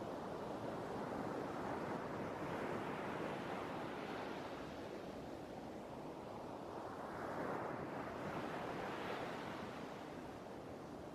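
Sea waves breaking and washing on the shore, a steady rush that swells and eases slowly, with one wave building to a peak about eight seconds in.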